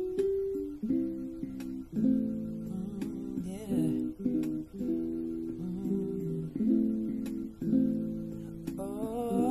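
Acoustic guitar playing slow chords, the intro of an R&B song. A voice begins singing without words near the end.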